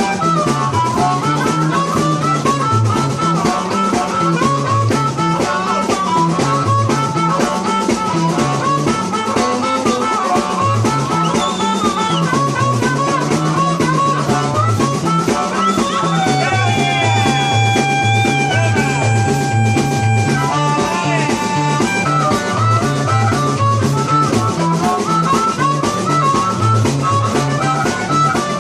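Live blues band playing an instrumental passage: a steady stepping bass line and drums under a lead guitar line, with a few long held, bent notes a little past halfway.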